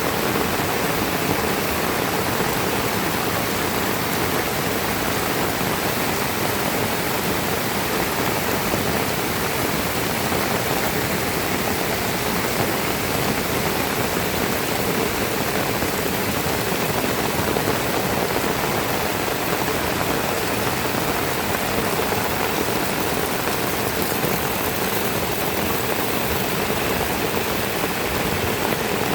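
Heavy rain falling: a steady, dense hiss of raindrops with no break.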